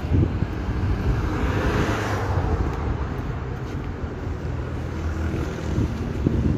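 Outdoor traffic rumble with wind buffeting the microphone; a passing vehicle's noise swells and fades about two seconds in.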